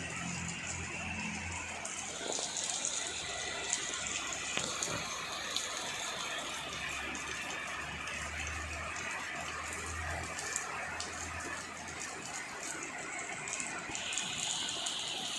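Heavy rain pouring down: a steady rushing hiss of falling water, with scattered sharp drips and splashes.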